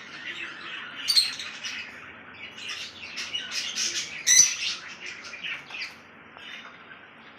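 Pet lovebird chattering in rapid, high chirps and squeaks, with two loud sharp squawks about a second in and after four seconds, quieter near the end.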